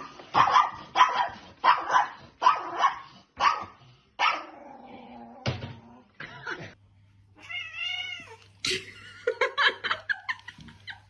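A cat meowing and yowling over and over: a run of short calls about twice a second, then a longer rising-and-falling call, then a few more quick cries near the end.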